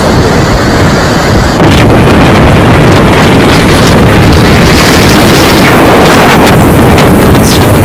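Loud, continuous rushing noise of strong wind buffeting the microphone, stepping up in level about a second and a half in.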